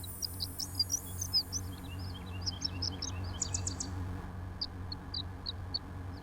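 Birds chirping and tweeting: many short, quick chirps, with a fast run of them about three and a half seconds in, over a faint low hum.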